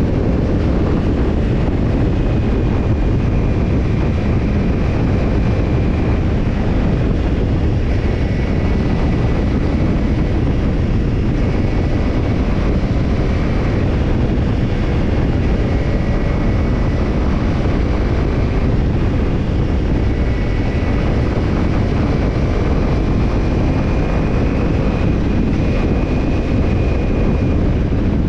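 Kawasaki Ninja 250's parallel-twin engine through a BEET NASSERT Evolution Type II titanium slip-on muffler, running at a steady engine speed with no revving. A heavy rumble of wind on the camera microphone runs underneath.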